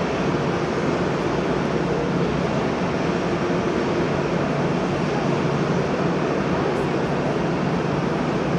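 Steady machine noise with a constant low hum, unchanging throughout.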